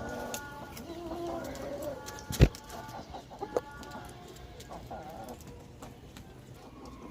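Poultry clucking and calling in short scattered bursts, with one loud sharp knock about two and a half seconds in.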